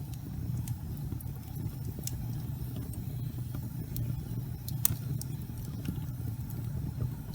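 Gas fireplace flames burning with a steady low rumble and scattered sharp crackles, one louder crack about five seconds in.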